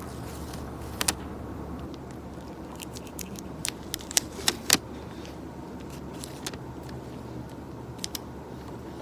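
Sparse, sharp clicks and clinks of small hard objects being handled at a desk, over a steady low hum. There is a single click about a second in, a quick cluster of louder clinks around the middle, and a few more near the end.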